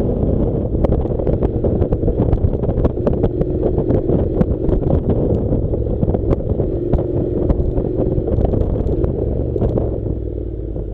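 Honda NC700's parallel-twin engine running as the motorcycle rides a rough dirt track, with many sharp clicks of stones and gravel clattering under the tyres. The sound eases off slightly near the end.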